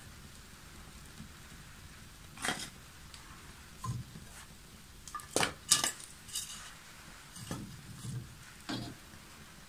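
Irregular clinks and knocks of hard objects being handled, about seven in all, loudest in a quick cluster a little past the middle.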